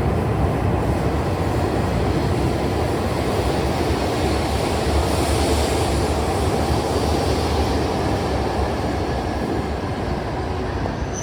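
Tohoku Shinkansen E5 series train passing through the station without stopping: a loud, steady rush of wheels and air that eases a little near the end.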